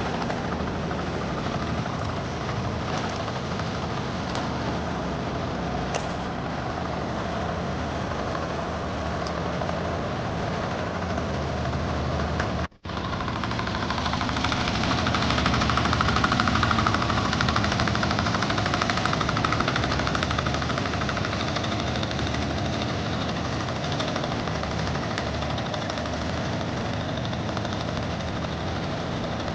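Strong wind buffeting the microphone: a loud, steady rumble that cuts out briefly about thirteen seconds in.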